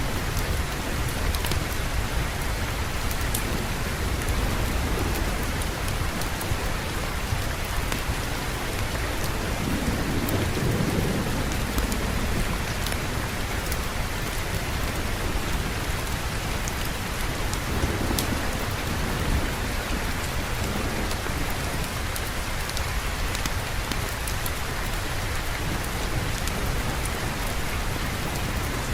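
Steady, even rainfall, with low thunder rumbling briefly about a third of the way in and again about two-thirds through.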